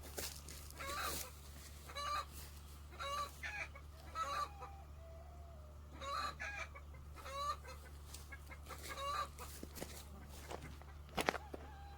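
Chickens clucking: short pitched calls repeating about once a second, over a steady low hum. A sharp knock sounds near the end.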